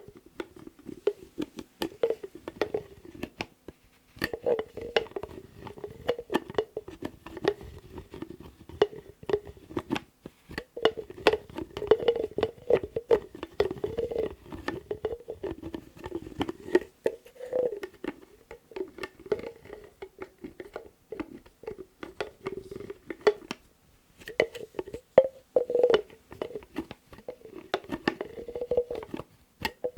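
Lids being handled: a dense, irregular run of sharp taps and clicks over a wavering rubbing tone, as of a lid scraped or twisted against a rim. The sound breaks off briefly twice, a few seconds in and again about three-quarters through.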